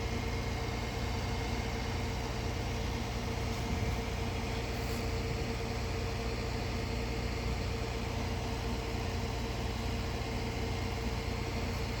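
Vehicle engine idling steadily, most likely the recovery truck standing by to winch the car aboard: an even low rumble with a constant hum over it.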